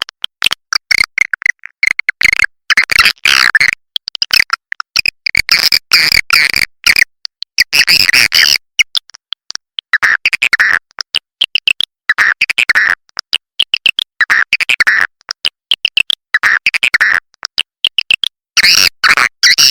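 Swiftlet lure call recording for swiftlet houses: edible-nest swiftlets twittering in rapid, dry, buzzy chirps and clicking trills. The chirps come in quick clusters separated by brief silences.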